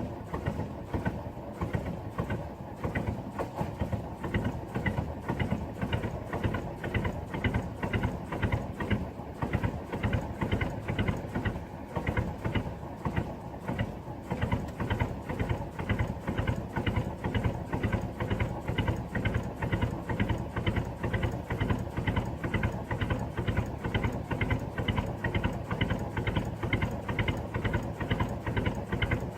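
Diesel engine running at a slow, even beat, with a regular knock several times a second that holds steady throughout.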